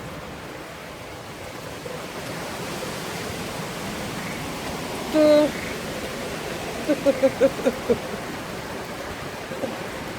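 Steady hiss of heavy hurricane rain, getting louder about two seconds in. About halfway through a brief voice sound cuts through, followed by a quick run of short voice sounds.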